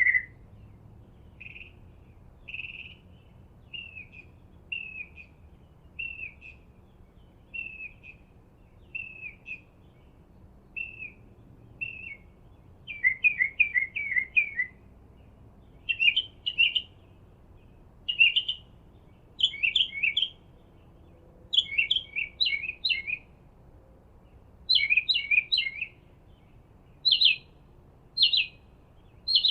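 Songbirds chirping: single short chirps about a second apart at first, then quicker runs of several chirps from about halfway through.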